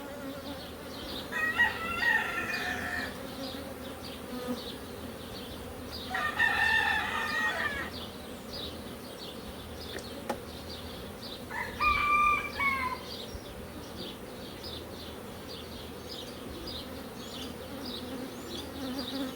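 Honeybees from an opened hive buzzing in a steady hum, while a rooster crows three times, about 2, 7 and 12 seconds in.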